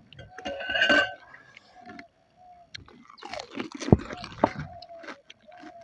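Mouth-close chewing and crunching of crisp panipuri shells, with a loud bite about a second in and a burst of crunches a little past the middle.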